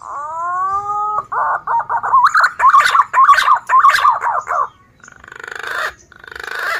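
Male punai daun green pigeon singing: a rising whistle held for about a second, then a quick run of wavering, warbling whistled notes. Near the end come two breathy, swelling notes.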